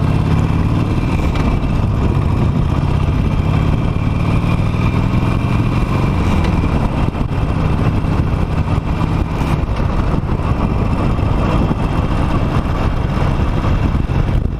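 Harley-Davidson Nightster's 975 cc V-twin engine running as the motorcycle rides along, with heavy wind and road noise. The engine's tone is clearer in the first few seconds, after which the rushing noise covers it.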